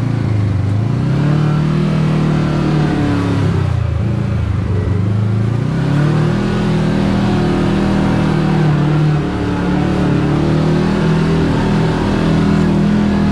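Side-by-side UTV engine running under load on a trail. The revs rise at the start, ease off about four seconds in, then climb again and hold steady.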